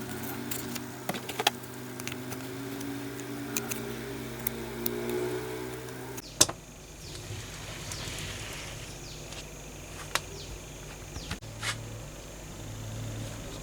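A small electric motor hums steadily, with scattered clicks and taps. About six seconds in the sound changes abruptly to a different hum with a few high whines and sharp clicks.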